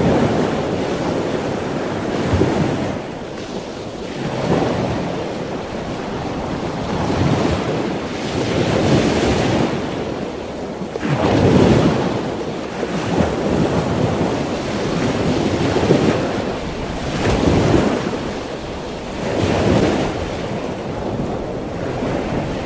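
Ocean waves breaking and washing in, the rushing noise surging and easing every couple of seconds.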